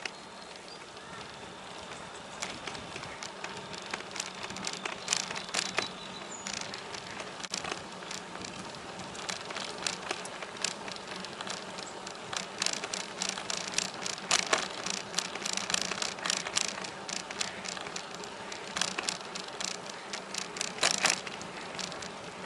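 Bicycle riding along a trail: a steady low hum from the moving bike with frequent sharp clicks and rattles, busier in the second half.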